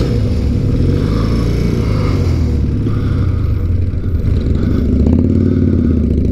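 Motorcycle engines running as the bikes pull away at low speed, the revs rising and falling with the throttle: a BMW R100's flat-twin close by, with a Harley-Davidson V-twin just ahead.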